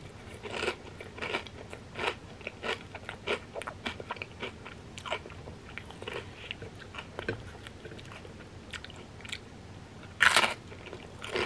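A person crunching and chewing deep-fried wonton chips, crisp crackles coming a few times a second, with a loud crunchy bite into a fresh chip about ten seconds in.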